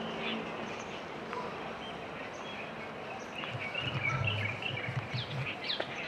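Small birds chirping in short, high calls over steady outdoor background noise, the chirps coming thicker in the second half. A low hum joins for about two seconds in the middle.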